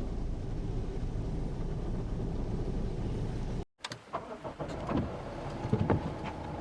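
Mazda CX-8 running with a steady low rumble; after a sudden cut, a series of irregular clicks and knocks.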